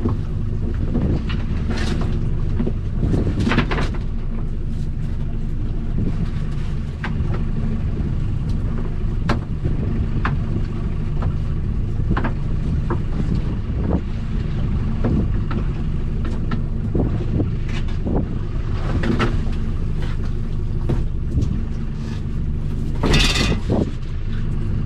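Small boat's outboard motor running steadily under way, with scattered knocks and clatters on the boat.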